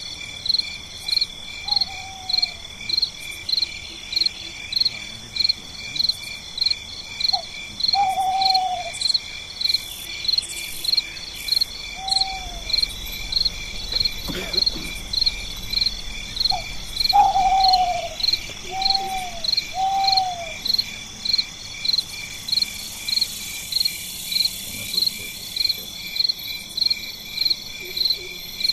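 Night insects chirping: a high, even pulsing chirp about twice a second over a steady high drone. Short falling calls sound now and then, once with three in quick succession.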